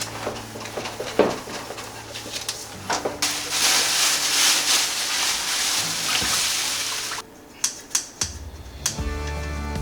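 Water running from a tap into a sink, with a few knocks of dishes or utensils, shut off abruptly about seven seconds in. A few sharp clicks follow, then background music begins near the end.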